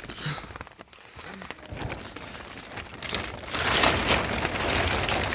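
Rain falling, with many small drop ticks. It grows heavier and louder about three seconds in.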